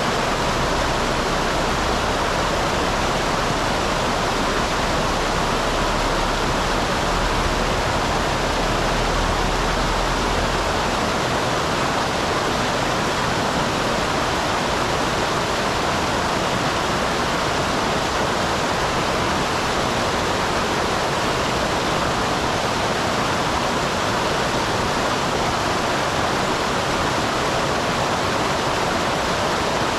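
Small waterfall on a mountain stream: water tumbling and rushing in a steady, even rush. A low rumble underneath fades out about a third of the way through.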